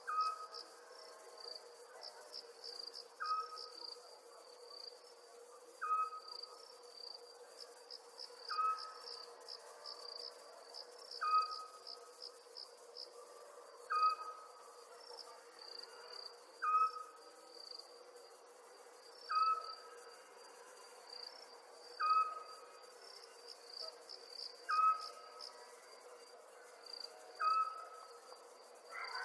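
Crickets chirping steadily in a night-time nature ambience. A short, even call sounds over them about every two and a half seconds and is the loudest thing heard, with a steady low hum underneath.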